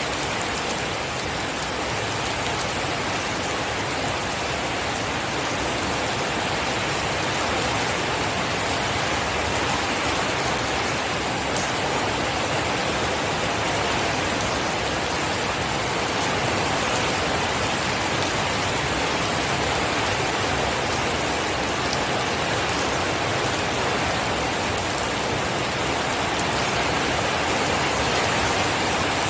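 Steady rain falling and pattering on a surface, an even hiss with fine drop detail and no thunder.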